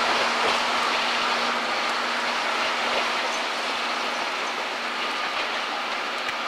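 Steam-hauled passenger train pulling out and rolling away: a steady rush of wheel and rail noise that slowly fades.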